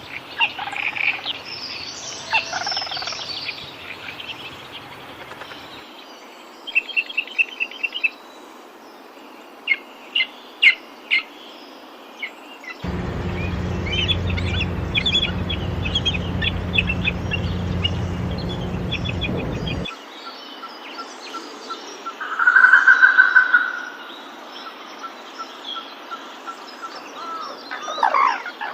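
Tropical forest birds calling: a mix of chirps, quick trilled note series and single calls from several birds, with a louder call about 23 seconds in. The background changes abruptly a few times, and a low steady hum runs for about seven seconds in the middle.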